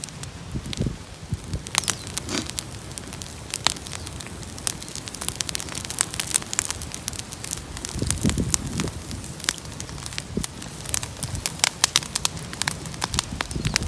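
Wood bonfire burning, crackling steadily with many sharp, irregular pops.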